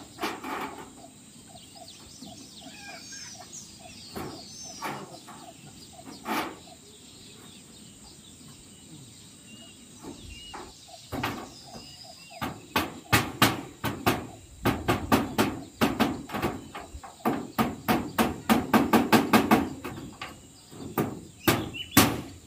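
Hammer blows nailing zinc roofing sheets: a few scattered knocks at first, then from about halfway quick runs of several sharp strikes a second.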